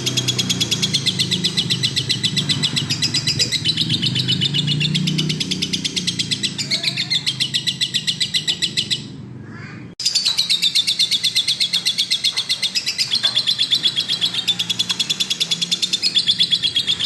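Lovebird singing a long, fast chattering run of high chirps. The song drops away briefly just past the middle and then starts again abruptly.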